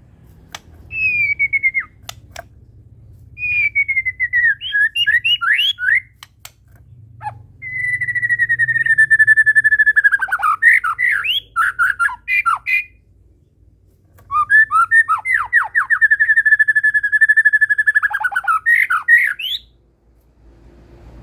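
White-rumped shama singing in four phrases, each made of long clear whistles that drift slightly downward and quick runs of rising and falling notes.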